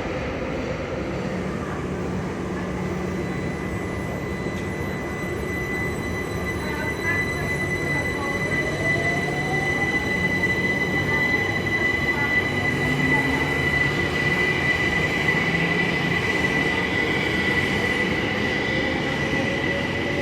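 Electric passenger train at an underground station: a steady high-pitched squeal over the running rumble, with a motor whine that rises in pitch twice, about a third of the way in and near the end.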